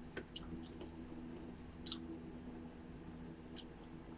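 Faint chewing of a crunchy yogurt-coated pretzel: a few small, sharp crunching clicks over a steady low hum.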